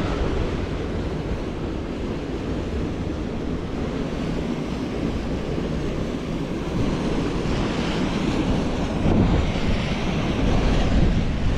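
Wind buffeting the microphone outdoors: a steady rushing noise with a flickering low rumble, growing a little stronger in the second half.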